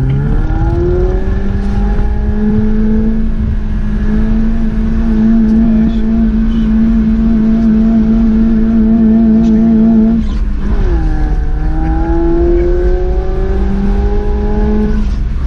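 Off-road 4x4's engine heard from inside the cabin while driving on a rough snowy dirt track. The revs climb over the first few seconds and then hold steady. They drop suddenly about ten seconds in, then climb again.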